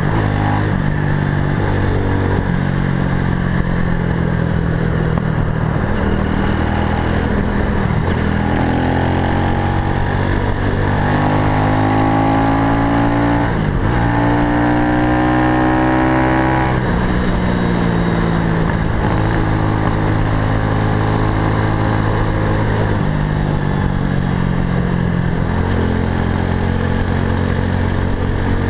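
Zongshen 190 cc single-cylinder four-stroke engine of a Super Cub–style motorcycle under way, pulling up through the gears. The engine note climbs in pitch and drops back at each gear change, several times over.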